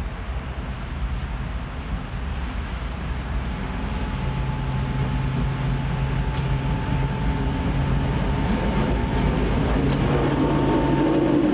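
Train approaching: a low rumble with a steady engine drone that grows steadily louder, a thin steady whine joining about four seconds in.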